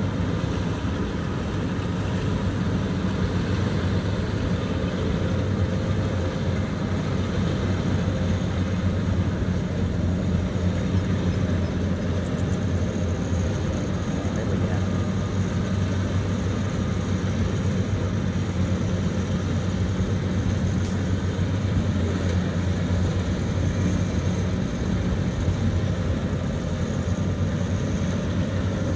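Kubota combine harvester's diesel engine and threshing machinery running steadily under load while harvesting rice: a continuous, even, low drone with no let-up.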